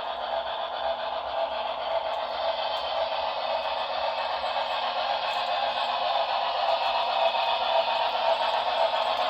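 Model steam train with passenger cars running on its track: a steady rolling rattle and clatter of wheels on rail, growing slowly louder.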